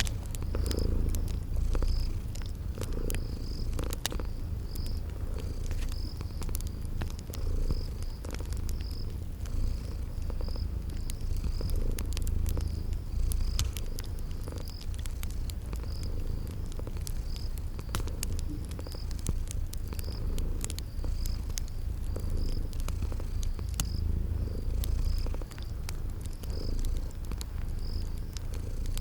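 A cat purring steadily in a low, gently pulsing rumble, over the light crackle and pops of a wood fire. Crickets chirp high and evenly, about once a second.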